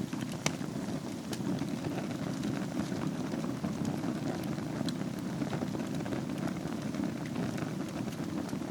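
Wood fire burning in a fireplace over glowing embers: a steady low rumble of flames with scattered sharp crackles and pops, one louder pop about half a second in.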